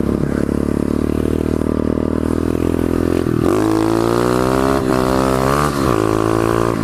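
Pit bike engine running steadily, then revved hard about three seconds in. Its pitch climbs as the bike accelerates, dipping briefly twice before holding high.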